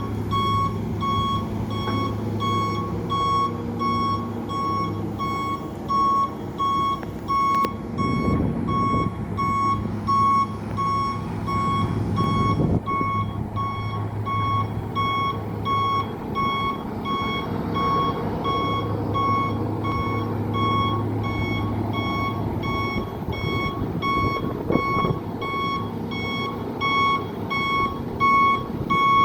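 Water truck's reversing alarm beeping steadily, about once a second, over the truck's engine running.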